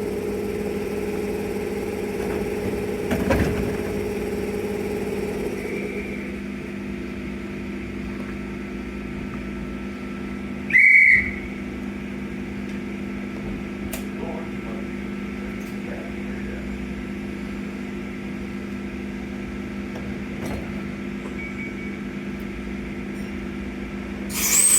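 Electric train standing at the platform, giving a steady low hum. A short, shrill whistle blast sounds about eleven seconds in, and a sharp tone falls steeply in pitch near the end.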